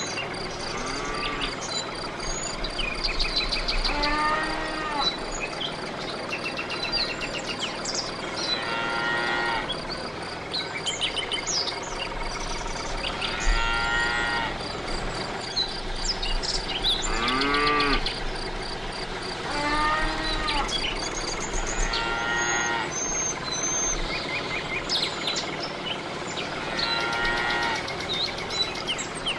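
Cattle lowing, single arched calls about a second long every few seconds, over scattered bird chirps and a steady high insect-like trill.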